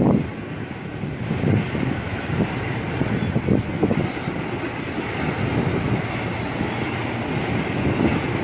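BNSF freight train cars rolling past, a steady rumble broken by irregular low knocks from the wheels.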